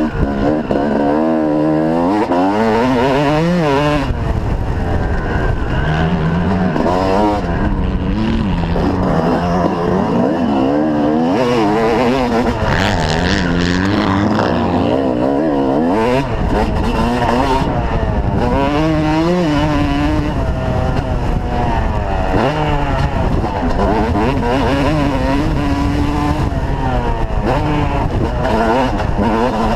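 Motocross bike engine revving hard and backing off again and again, its pitch climbing through each gear and dropping as it eases off, over a constant low rumble.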